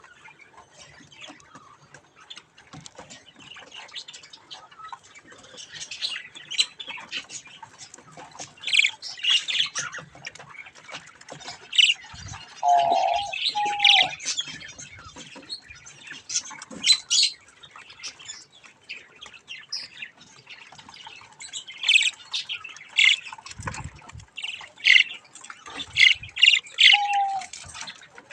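Budgerigar chicks chirping and squawking in quick, sharp bursts, busier from about six seconds in, with a couple of lower, longer calls among them.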